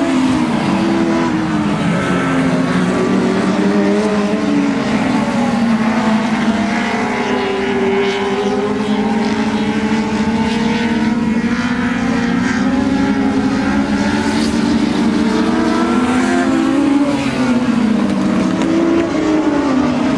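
A pack of motorcycle-engined dwarf race cars running hard around a short oval. Several engines are heard at once, their pitch rising and falling as they lift through the turns and accelerate down the straights.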